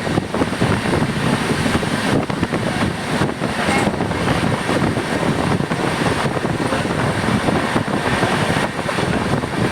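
Moving train heard from on board: a steady, loud rumble and rattle of wheels running on the rails, with rushing air.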